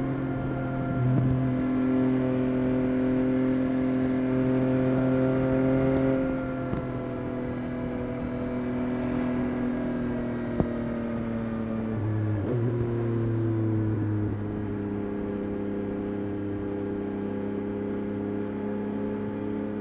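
Yamaha Tracer 9 GT+'s CP3 three-cylinder engine through a Roadsitalia titanium exhaust, running at moderate steady revs while riding. Its pitch eases down through the middle, changes briefly about twelve seconds in, then holds lower and steady. There is a single sharp click about ten seconds in.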